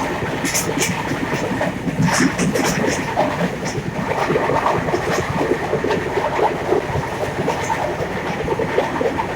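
Train running on the track: a steady rumble with scattered clicks and rattles throughout.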